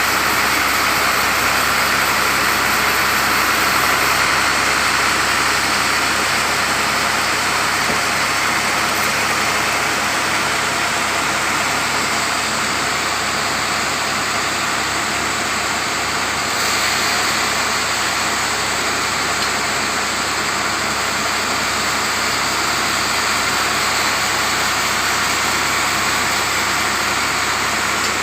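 Sawmill saw and its motor running steadily while cutting mango wood, a dense even noise with a slight change in tone a little over halfway through.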